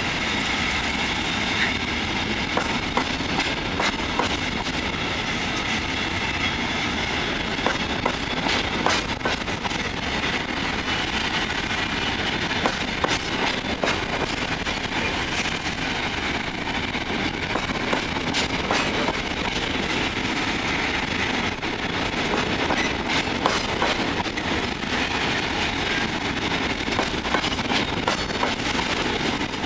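Freight train of sliding-wall covered wagons rolling past: a steady rumble of steel wheels on rail with frequent clicks and clanks, over a thin high ringing tone.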